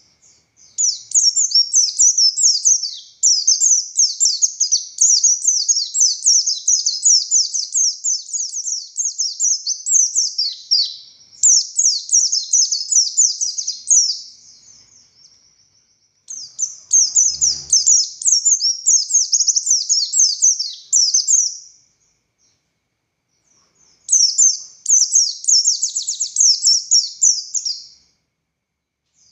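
White-eye (pleci buxtoni) singing a fast, high, chattering song in three long unbroken phrases with short pauses between them. A faint soft knock comes near the middle.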